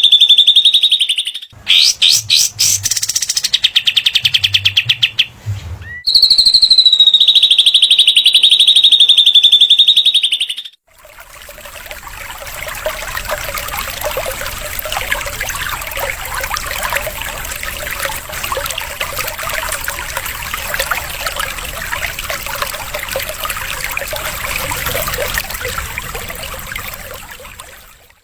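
Recorded songbird calls of the kind sold as cililin and katem training tracks. A high, wavering, buzzy trill, then a run of fast rattling notes, and the trill again. About eleven seconds in, a quieter, dense, busy chattering takes over and runs on.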